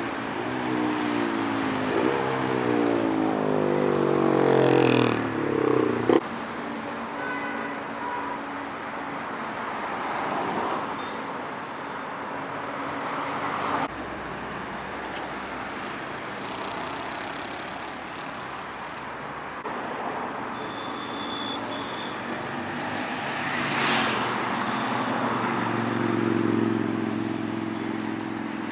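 A superbike accelerating hard past, its engine note climbing in repeated rising steps through the gears and peaking loudly before cutting off abruptly about six seconds in. Road traffic noise follows, with another vehicle passing later and an engine humming steadily near the end.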